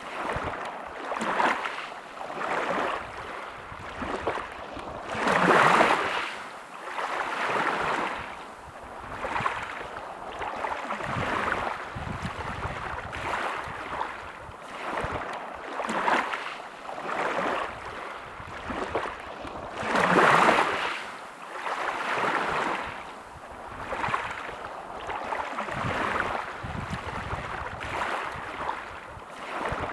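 Small sea waves lapping and washing in, a soft swell every second or two, with two bigger surges of water about five and twenty seconds in.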